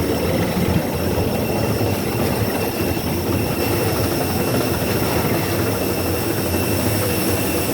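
Steady rush of air-conditioning and ventilation noise inside a parked airliner's cabin, with faint high whining tones held constant.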